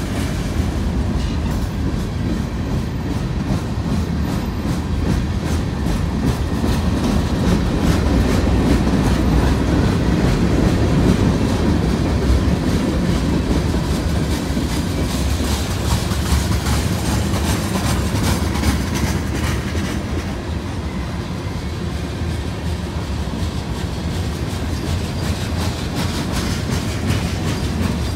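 Freight train cars rolling past close by: a steady low rumble of steel wheels on rail, broken by repeated clacks as the wheels pass over the track.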